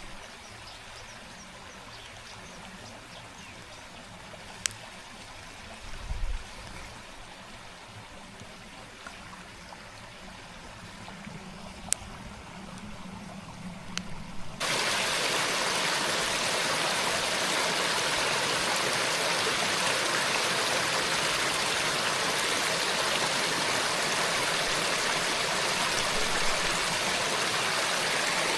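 Running water of a stream, a steady rush with a few light clicks. About halfway through it jumps suddenly to a much louder, closer rush that holds steady.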